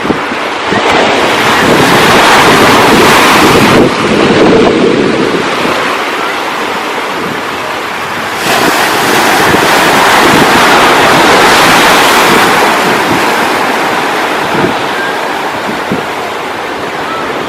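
Ocean surf washing in, two waves swelling and falling away, with wind buffeting the microphone.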